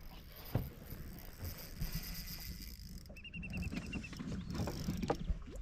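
Low, uneven rumble of wind on an action camera's microphone on a boat, with scattered light knocks. About three seconds in comes a brief run of rapid high-pitched ticks.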